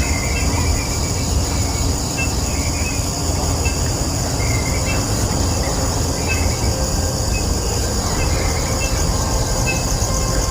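Outdoor ambience: a steady low rumble, like wind on the microphone, under a continuous high insect drone, with scattered short high chirps.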